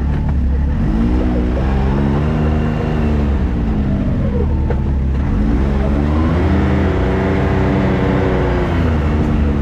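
Can-Am Maverick X3 side-by-side's engine running under load on a trail, its pitch rising and falling as it speeds up and eases off, twice.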